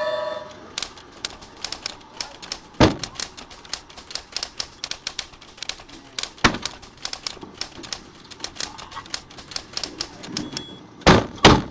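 Rapid, irregular clicking with a few sharper knocks, two of them close together near the end, and a short pitched tone right at the start.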